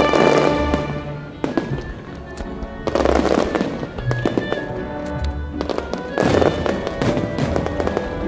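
Fireworks bursting and crackling, with sharp bangs scattered through and bursts of heavier crackle, over continuous music.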